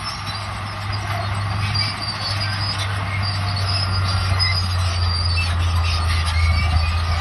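Crawler bulldozer working: its diesel engine runs with a steady low drone, and short high squeaks from the steel tracks sit over a noisy clatter.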